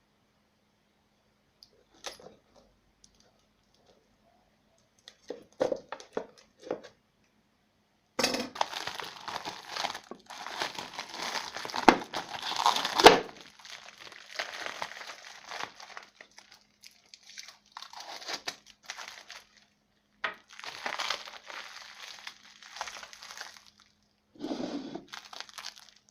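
Irregular crinkling and scraping handling noise in a small room, in uneven stretches with pauses, preceded by a few sharp clicks.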